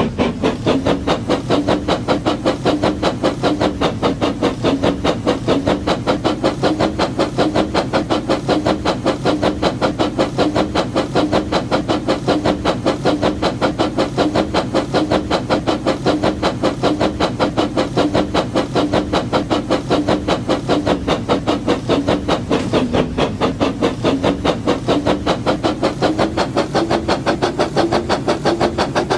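Labo Brick toy train (James the Red Engine) running: a steady, rapid chugging pulse of about five beats a second over a hum that rises slightly in pitch near the end.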